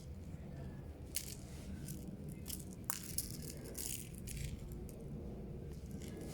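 A small toy rattling and clicking in short, irregular bursts, about one to two a second, as it is batted about in play.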